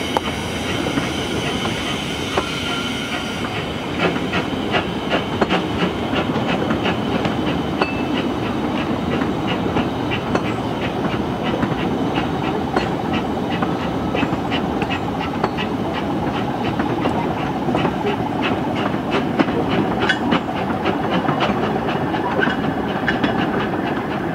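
Narrow-gauge train running, with a steady rumble and a quick, regular clickety-clack of wheels over rail joints. A thin high whine of wheel squeal is heard in the first few seconds.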